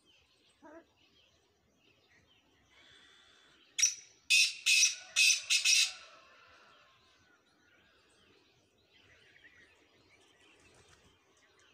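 Black francolin (kala teetar) calling: a loud series of about five notes lasting about two seconds, starting about four seconds in. Faint bird chirps are heard around it.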